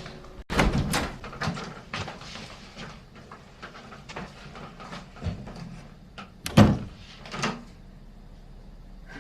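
A run of clicks and knocks, with a louder thump about six and a half seconds in and another about a second later.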